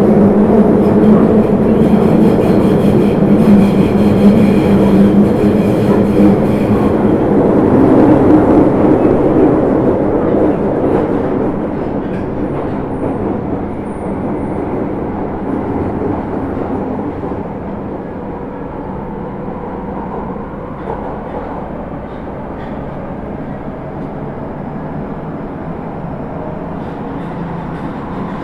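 Osaka Metro 30000 series subway train with Hitachi SiC-VVVF control running through the tunnel, heard from inside the car: a loud rumble of wheels and motors for the first nine seconds or so, then growing gradually quieter and settling into a steadier, lower run.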